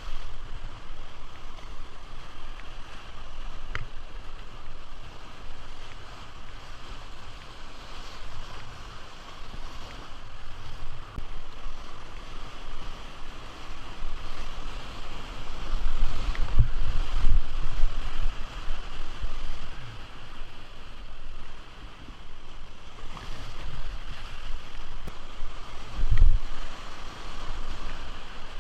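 River water rushing steadily, heard from a boat on the river, with wind buffeting the microphone in low gusts about halfway through and again near the end.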